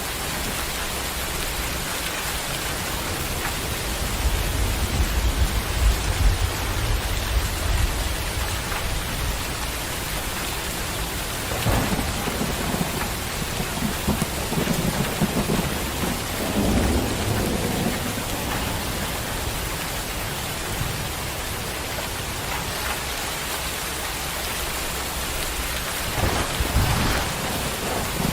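Thunderstorm: steady rain falling, with rolls of thunder. A long, deep rumble starts about four seconds in, and more thunder rumbles and cracks come around the middle and again near the end.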